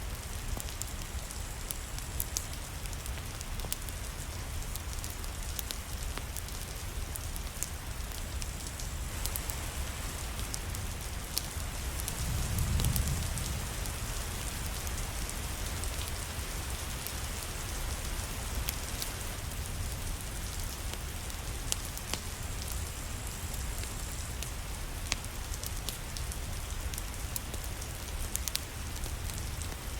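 Steady rain, with scattered sharp crackles of a wood fire mixed in. A low rumble swells briefly about twelve seconds in.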